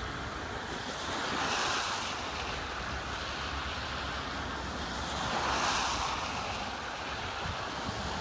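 Train cars rolling slowly past on the rails: a steady rushing noise of wheels on track that swells about every three to four seconds, as each car goes by.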